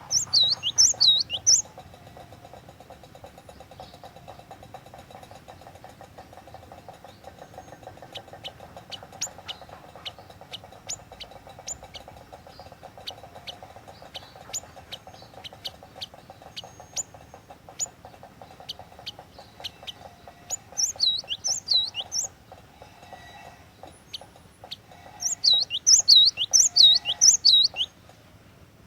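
Glatik watu (cinereous tit) calling: loud bursts of quick, high, down-slurred notes at the start and twice more near the end, with scattered single sharp chirps in between.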